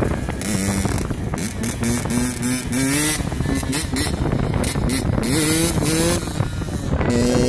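Dirt bike engine revving, its pitch climbing and dropping again and again as the throttle is worked, with wind buffeting the microphone.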